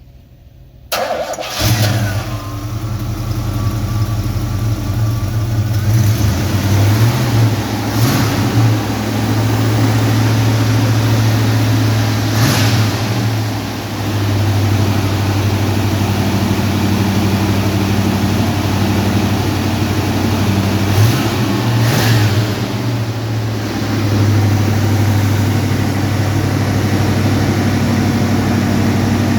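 1948 Chevrolet five-window pickup's engine starting about a second in after a brief crank, then running at a steady idle, with a few brief sharp sounds over it.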